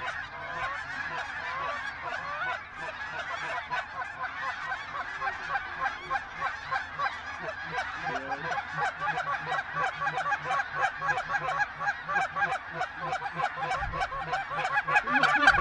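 A large flock of geese calling: many overlapping honks, growing louder toward the end.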